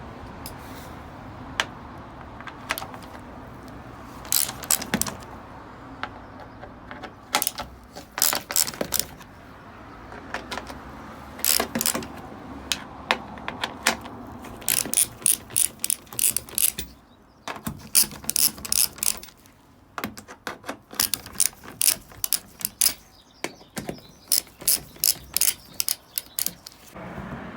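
Ratchet wrench clicking in quick bursts with short pauses, as bolts are turned by hand.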